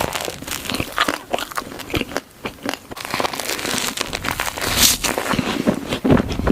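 Close-miked eating: a dense run of crunching and crackling as crisp food is bitten and chewed.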